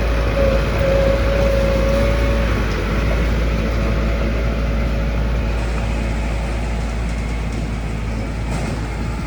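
Heavy construction machinery running steadily, a diesel engine's rumble with a high whine that fades out about two and a half seconds in.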